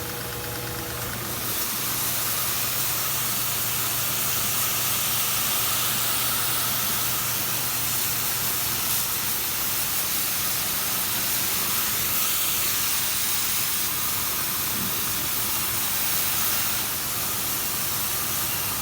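Electric power washer of a coin-operated car wash spraying a water jet after being restarted from pause. It makes a loud, steady hiss that strengthens about a second in.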